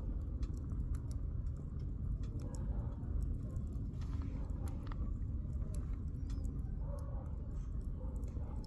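Campfire of burning firewood crackling, with irregular sharp snaps and pops over a low steady rumble.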